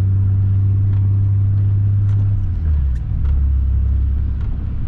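Nissan 300ZX's V6 engine running as the car drives, a steady low drone whose pitch drops about two and a half seconds in as the revs fall.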